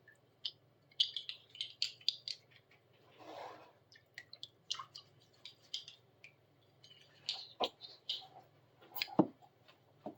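Scattered light clicks, taps and rustles of things being handled, with a short soft hiss about three seconds in.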